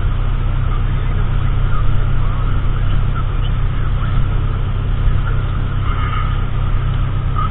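Car engine idling with the heater fan blowing, heard from inside the cabin: a steady low rumble under an even rushing hiss.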